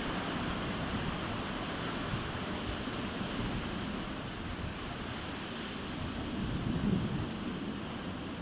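Strong typhoon wind blowing as a steady rush of noise, with a stronger gust about seven seconds in.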